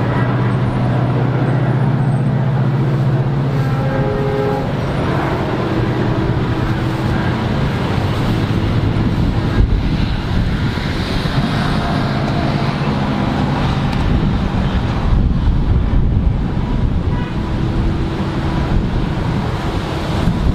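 Diesel-hauled passenger train running past: a steady locomotive engine drone for the first few seconds gives way to a continuous loud rumble as the train goes by.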